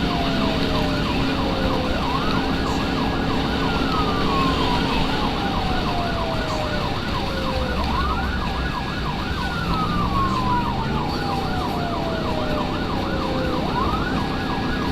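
Emergency vehicle siren on wail: it climbs quickly, holds at the top, then falls slowly, repeating about every six seconds, with a faster warbling tone over it. The vehicle's engine runs underneath and revs up about ten seconds in.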